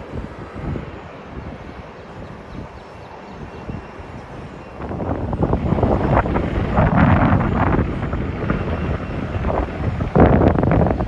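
Jet airliner engine noise with wind buffeting the phone's microphone. It turns much louder and gustier about five seconds in.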